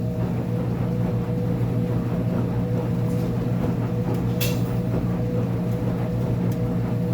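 Uni-Mac UniMat 35 commercial front-load washer running mid-cycle: a steady motor hum with a constant whine, and a couple of faint clicks.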